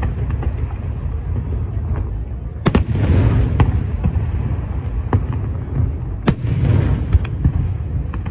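Aerial fireworks bursting: two loud bangs, about three and six seconds in, each trailing off into about a second of crackle, with smaller pops between them over a steady low rumble.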